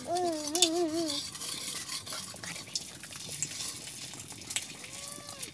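Close-up chewing and crunching of a cashew biscuit: a string of small, crisp clicks and crackles. A brief wavering tone sounds in the first second, and a short one near the end.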